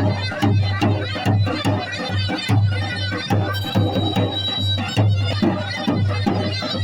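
Traditional folk music: drums beat a steady rhythm of about two strokes a second under a reedy melody.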